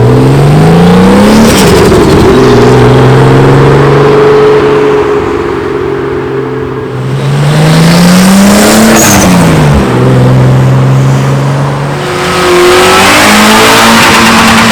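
Tuned car engines revving and accelerating away, the engine note climbing, levelling off, then climbing again and dropping sharply about ten seconds in before rising once more near the end.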